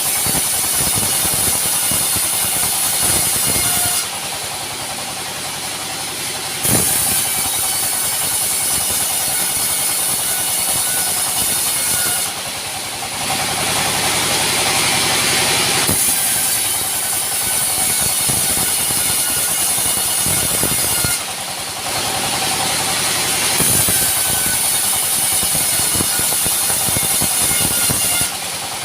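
Sawmill machinery running: an engine-driven saw with a steady mechanical drone and a high whine, the whine dropping away briefly several times as the load changes.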